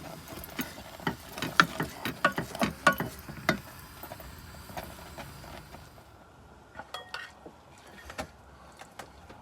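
Light clinks and taps of a spoon against a bowl while porridge is served and topped with cranberries, a quick run of small strikes for the first few seconds, then a few scattered taps near the end.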